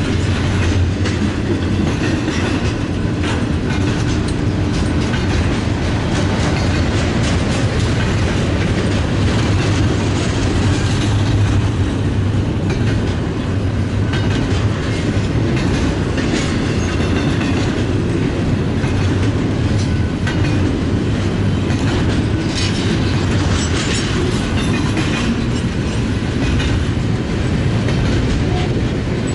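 Freight train rolling past, its cars' steel wheels clacking over the rail joints in a steady, continuous run.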